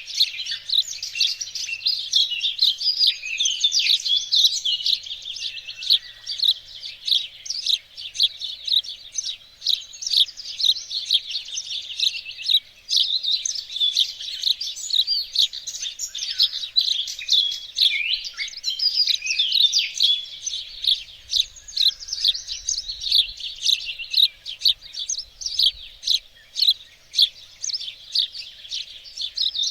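Several small songbirds chirping and singing at once, a dense, continuous chorus of quick high notes.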